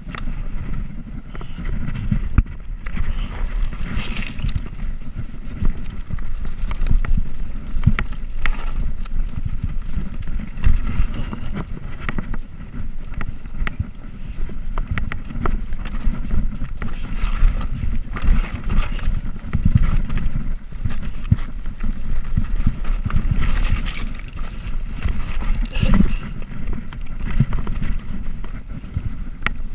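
Wind rumbling over the microphone during a bicycle ride, with frequent small clicks and knocks from the bike and the road surface.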